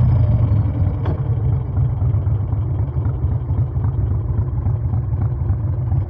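Harley-Davidson Heritage Softail's 1340 cc Evolution V-twin running steadily under way, with the low pulsing rumble of the engine and exhaust. It is a little louder for the first second, and there is one brief click about a second in.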